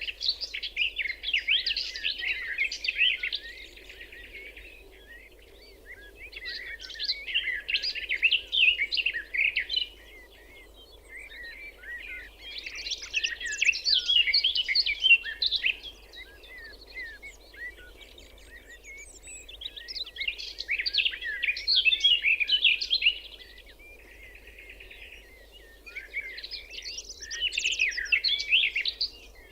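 A songbird singing: rapid warbling phrases of three to five seconds each, repeated about five times with short pauses between. Underneath runs a faint, steady low rumble of background noise.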